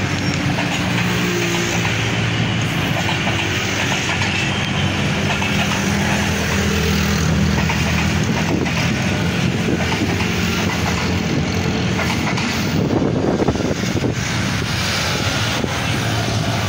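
Passenger train coaches rolling past along the track in a continuous steady noise, with a low steady engine hum underneath through the first half.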